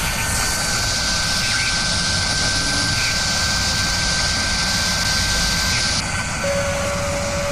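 Bahçıvan fan with metal blades running: a steady rush of air with a thin high whine over it. The top of the hiss eases about six seconds in.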